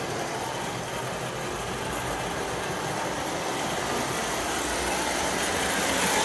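Lionel 746 Norfolk and Western J-class toy steam locomotive running on three-rail track: the steady noise of its motor, gears and wheels on the rails, growing gradually louder.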